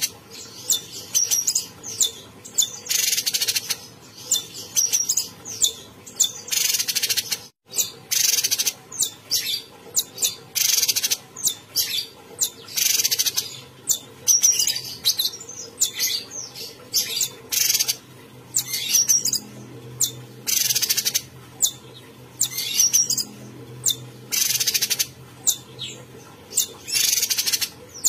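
Cucak cungkok songbird singing vigorously: short, sharp, high-pitched calls and phrases repeated once or twice a second.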